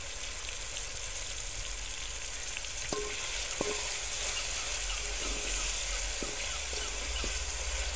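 Chopped tomatoes and onions sizzling in oil in an aluminium cooking pot. From about three seconds in, a wooden spoon stirs them and knocks lightly against the pot about once a second, each knock giving a short ring.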